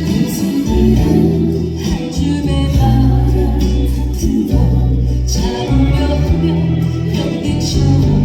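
A singer singing a slow, gentle Korean trot song live over a backing track with steady bass.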